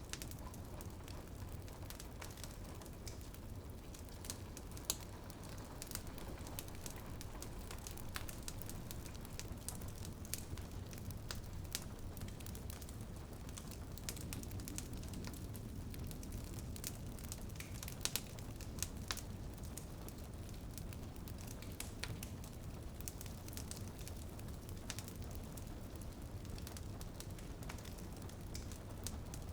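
Wood fire in a fireplace crackling steadily, with a few louder pops, over a low steady rumble of the flames. Rain patters on a window behind it.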